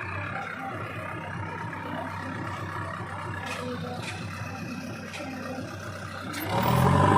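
Diesel engine of a JCB 3DX backhoe loader running steadily at low revs, with a few faint clicks. About six and a half seconds in it gets much louder, revving up as the machine takes load.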